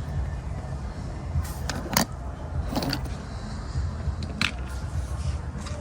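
A few sharp clicks and rustles from the plastic blister pack of a carded Hot Wheels car being handled, over a steady low rumble.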